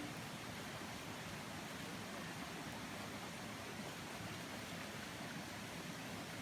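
Steady, faint rush of water from small waterfalls.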